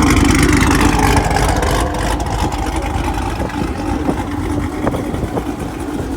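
Chevrolet Camaro's engine running with a loud, nasty exhaust note, loudest for the first two seconds and then easing off.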